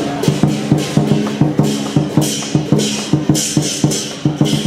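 Lion dance percussion: a drum beaten in a fast, steady rhythm, about four to five strokes a second, with repeated crashes of metal percussion over it.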